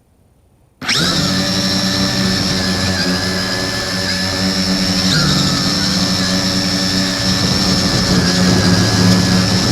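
X101 quadcopter's electric motors and propellers spinning up suddenly about a second in, then running with a loud, steady whine, picked up by the camera taped to the drone's body; the pitch dips briefly a couple of times as the throttle changes.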